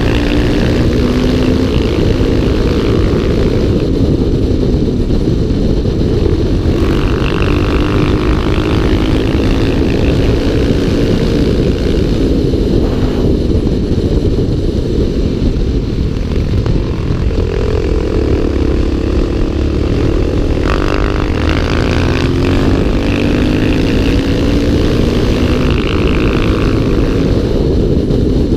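Single-cylinder dual-sport motorcycle engines (Suzuki DR-Z400SM and Yamaha WR450F) running at road speed, heard from a camera on one of the bikes. Wind rushes over the microphone throughout. The engine pitch rises and falls with throttle and gear changes, most clearly past the middle.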